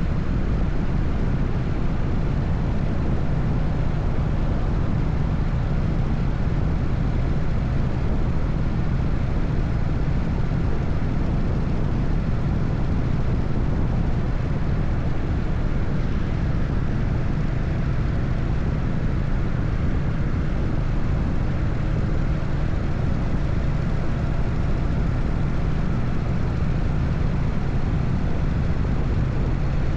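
Harley-Davidson Evolution V-twin engine running at a steady cruise, its low pulsing exhaust note holding an even pitch with no revs or gear changes, over a rush of wind and road noise.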